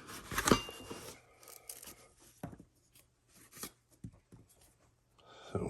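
Faint rubbing and rustling with a few light clicks and knocks, the loudest about half a second in.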